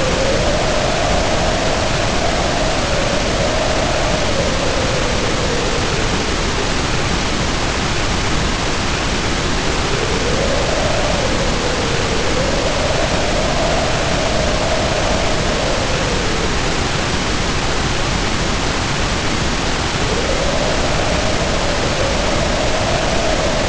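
Heavy rain pouring in a steady hiss, with wind howling over it in long gusts whose pitch rises and falls, three times about ten seconds apart.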